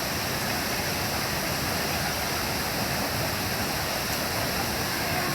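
A mountain stream's water rushing in a steady, even noise.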